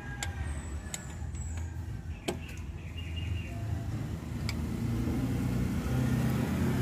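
A few sharp clicks and taps from hand work on the engine's ignition coil, over the low running hum of a vehicle engine that grows louder in the second half.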